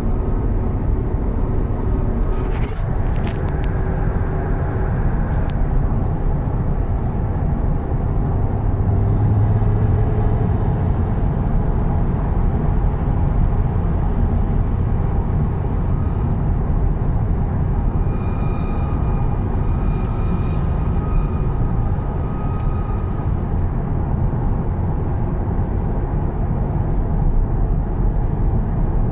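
Audi TT RS on the move, with a steady rumble of road and running noise. Over it, a high-pitched screech from a rear wheel comes and goes: sharp high streaks a few seconds in, and a thin whine later on.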